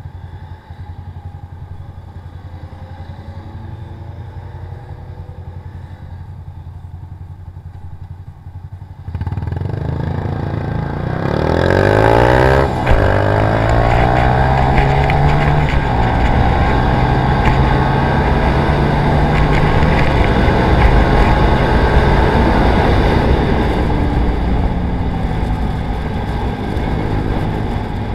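Motorcycle engine running at low revs, then about nine seconds in it opens up: the revs climb sharply, drop abruptly at a gear change about thirteen seconds in, and the engine then runs loud and hard at high speed.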